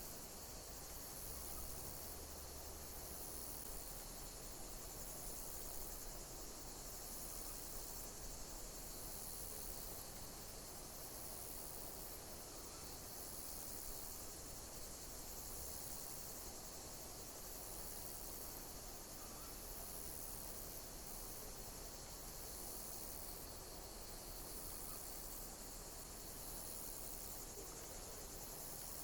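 Insects chirping: a high-pitched chirp repeating regularly, a little more often than once a second, over a steady high hiss.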